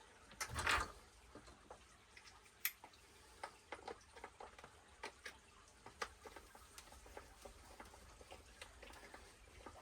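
Faint, irregular small clicks and ticks of a hand driver on a screw and metal parts, as a screw is finished off by hand after the drill. There is a louder rustling handling sound about half a second in.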